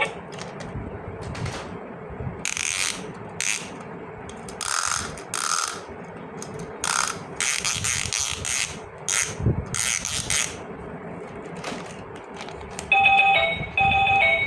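Hands handling plastic toy parts and packaging: a string of separate short clicks and rustles. Near the end a toy's electronic tune starts up.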